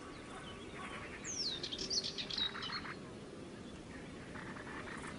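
Wild birds chirping and calling, with a quick downward-sweeping whistle just over a second in and short rapid trills over a faint background hiss.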